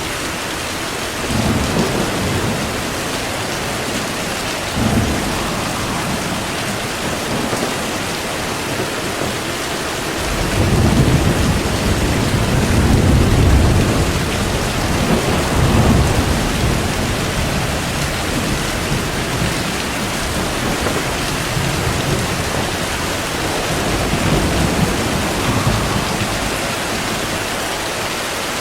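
Steady heavy rain with rolling thunder: short rumbles about 1.5 and 5 seconds in, a long, louder rolling peal from about 10 to 17 seconds in, and another rumble near the end.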